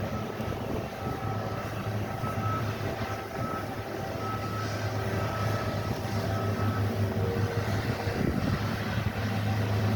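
Heavy snow-removal equipment running steadily with a low engine hum, a reversing alarm beeping faintly over it.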